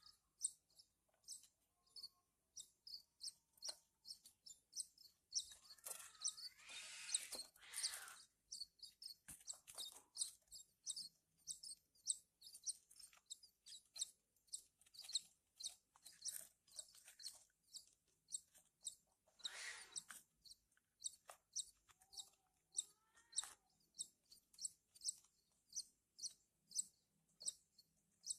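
Branjangan (Javan bush lark) chicks giving short, high begging chirps over and over, about two or three a second, with two louder, fuller bursts of calling, one a few seconds in and one about two-thirds of the way through.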